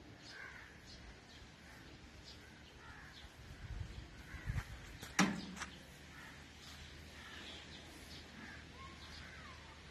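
Faint birds calling now and then, with one sharp click about five seconds in.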